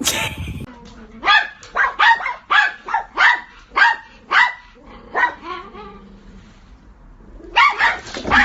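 A dog barking repeatedly, about two barks a second in a run of some eight barks, then a pause and a few more barks near the end. A short noisy burst comes at the very start.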